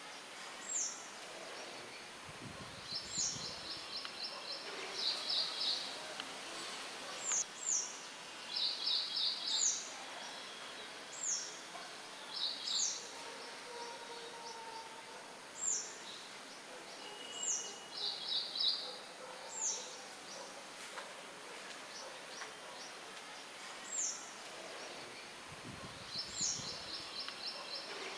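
Songbirds chirping over and over: short high down-slurred notes alternating with quick rapid trills every second or two. Underneath is a steady hiss of light wind in foliage, with a couple of brief low gusts.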